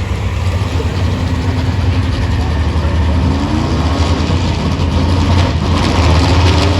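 A pulling truck's engine runs loud and steady with a deep drone, its pitch rising and falling slightly about halfway through.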